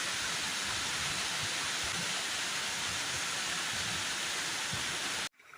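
Rushing water: a steady, even rush of stream or waterfall water, which cuts off abruptly near the end.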